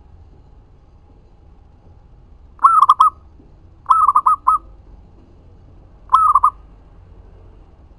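Zebra dove (perkutut) cooing: three short phrases of quick repeated coo notes, each under a second long, a little over a second apart.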